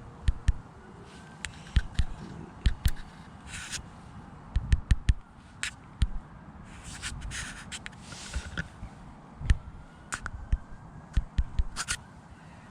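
Handling noise close to a GoPro's microphone: irregular sharp clicks, scrapes and short rustles over uneven low wind buffeting.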